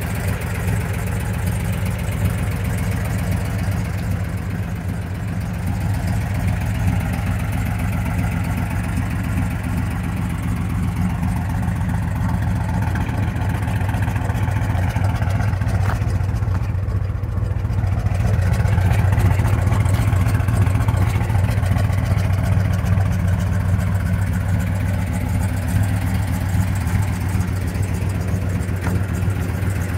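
Chevrolet Chevelle SS's 396 big-block V8 idling steadily.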